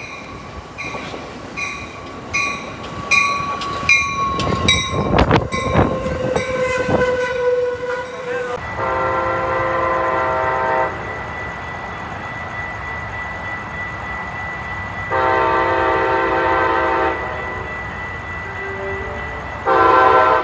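A railroad crossing bell rings steadily while a train passes with a falling tone and a few sharp wheel knocks. Then a locomotive horn sounds two long blasts and a short one, the grade-crossing signal pattern.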